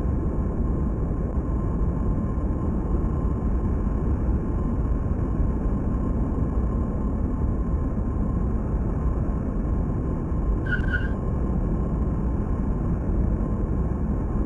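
Large jet aircraft's engines running with a steady roar, without change in level, and a brief high chirp about eleven seconds in.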